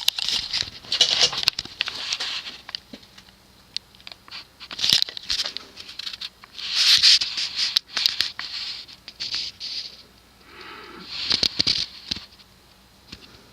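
Intermittent rustling and scratching in bursts of about a second, with scattered sharp clicks.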